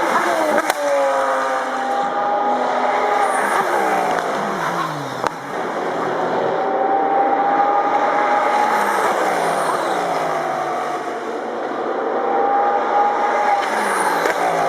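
Audi R8 LMS Ultra GT3 race cars' V10 engines at high revs passing one after another, each engine note holding high and then dropping in pitch as it goes by, about every four to five seconds. A sharp crack sounds about a second in and another about five seconds in.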